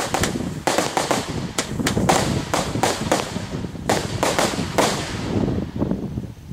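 Consumer fireworks, four 'crashing rainbow' items going off together: a rapid, irregular string of sharp bangs and crackles that thins out about five seconds in.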